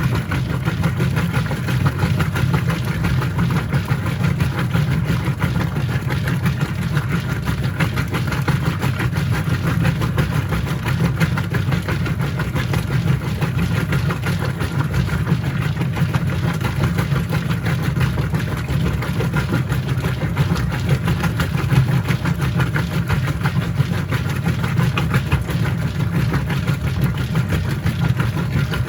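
Whirlpool top-load washing machine running mid-cycle, a steady low motor hum with no pause or change.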